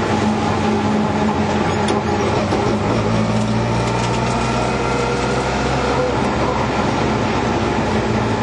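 Rally car's engine heard from inside the cabin, running at fairly steady revs under road noise as the car drives along.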